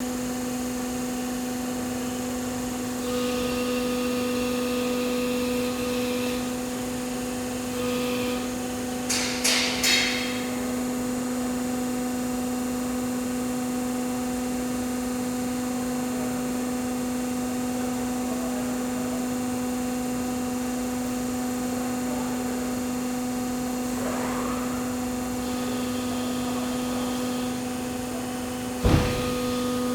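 Steady hum of the hydraulic unit of a Baykal APHS-Compact 240-ton CNC press brake running. A few sharp clicks come about nine to ten seconds in, and a loud thump comes near the end.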